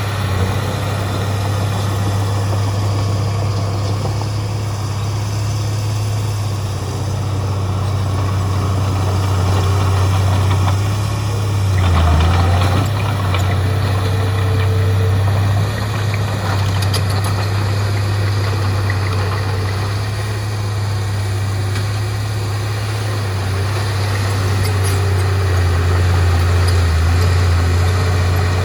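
Heavy diesel engine of earthmoving machinery running steadily with a deep, constant hum, swelling briefly about twelve seconds in and rising a little toward the end as the load changes.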